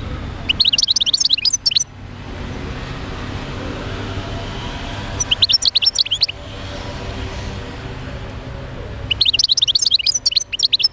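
European goldfinch singing in three bursts of rapid, high twittering, each about a second long, the last still going at the end. A steady low rumble lies underneath.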